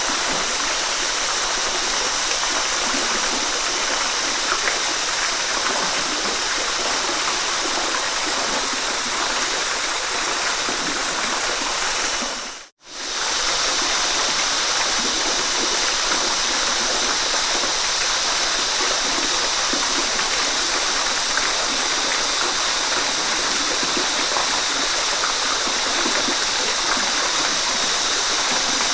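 Waterfall rushing in a steady, even wash of water noise. About twelve seconds in it fades briefly to silence and comes straight back.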